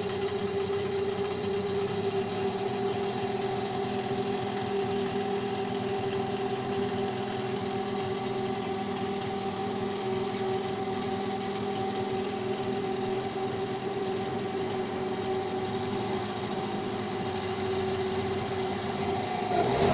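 Car engine with a freshly rebuilt Ozon carburetor idling steadily, a steady tone over the running, with no sneezing (popping back through the carburetor). It begins to rev up at the very end.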